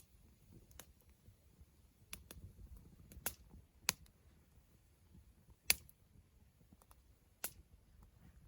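Wood campfire crackling: irregular sharp pops and snaps a second or so apart, two of them clearly louder than the rest, over a faint low hiss.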